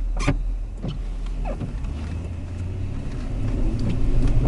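Cabin noise inside a moving Toyota Sequoia SUV: a steady low rumble of road and engine that grows louder near the end, with a short sharp click about a quarter second in.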